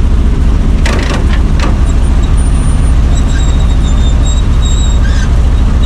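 Chevrolet C60 wrecker's carbureted gasoline engine idling steadily, with a few short metal clanks about a second in.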